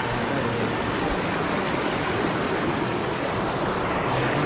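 Steady rush of a waterfall and its rocky stream, a constant hiss of falling water.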